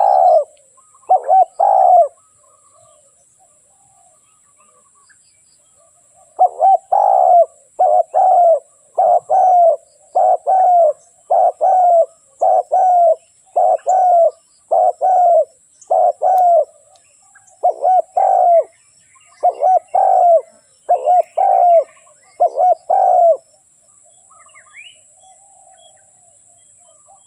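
Spotted dove cooing: a few notes, a pause of about four seconds, then a long, even run of about twenty coo notes that stops a few seconds before the end.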